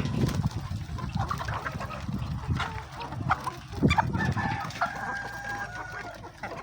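A flock of chickens clucking and calling in short notes, with one longer held call, a rooster crowing, about four and a half seconds in.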